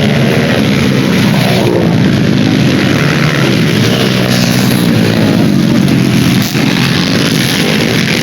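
Several motorcycle engines revving on a dirt track, their pitches rising and falling and overlapping, over a steady loud rush of noise.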